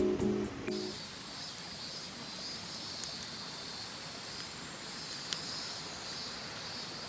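Acoustic guitar music ends just under a second in, leaving steady outdoor forest ambience: a continuous high insect chorus over a soft background hiss, with a couple of brief sharp clicks.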